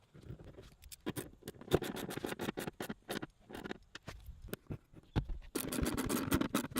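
Irregular clicks, knocks and scraping from handling a car seat and its fittings during a seat swap, with rustling stretches.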